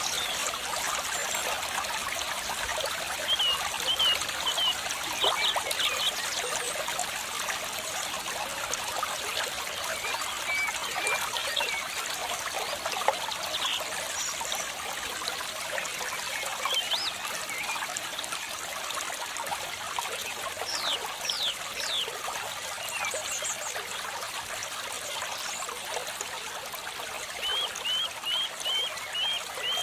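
Water trickling and flowing steadily, with birds calling over it: a run of short repeated chirps a few seconds in, a few falling whistles about two-thirds of the way through, and another quick series of chirps near the end.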